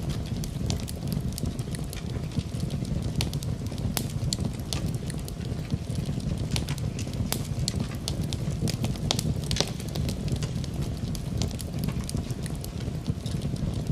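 Fire burning in a fireplace: a steady low rumble of flames with many irregular sharp crackles and pops.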